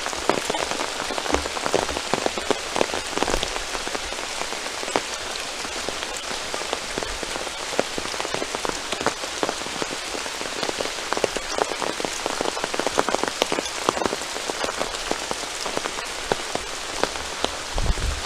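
Steady rain falling, with many individual raindrops striking close to the microphone as separate clicks.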